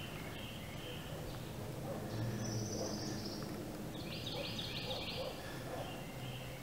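Wild birds calling in woodland: a high call about two seconds in and a quick run of about five short notes around four seconds in, over a low steady background rumble.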